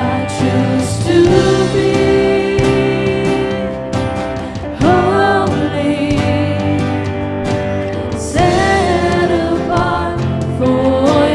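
A Christian worship song: a singing voice holds and bends long notes over steady instrumental accompaniment.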